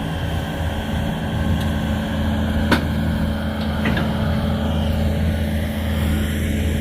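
Duramax diesel truck engine idling steadily, with two light clicks a few seconds in.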